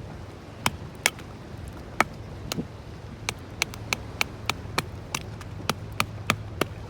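Wood fire crackling: a run of sharp pops and snaps, about two or three a second.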